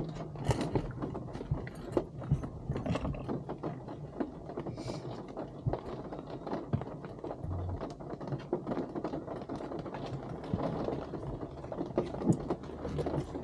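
Rain tapping irregularly on the car's roof and windshield, heard inside the cabin over the car's low, steady running hum.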